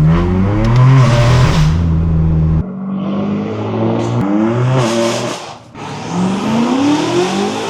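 Straight-piped BMW engine, loud and steady for the first couple of seconds, then cutting off abruptly. After that it pulls with rising pitch, and the sound briefly drops away just before the last rising pull.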